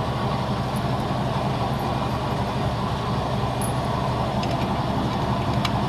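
Shop air compressor running steadily with an even, unbroken hum.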